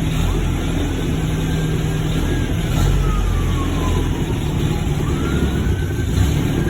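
1949 MG YT's four-cylinder engine idling steadily just after a cold start, on partial choke. A siren wails in the background, its pitch falling and then rising again.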